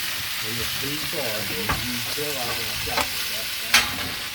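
Food frying with a steady sizzle, and a few sharp clicks over it.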